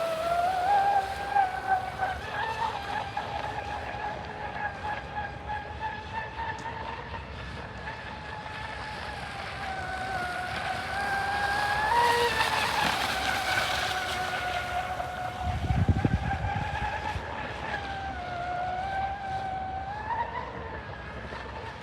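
Electric motor of a radio-controlled boat running, a steady whine whose pitch wavers up and down with the throttle. A brief low rumble breaks in about 16 seconds in.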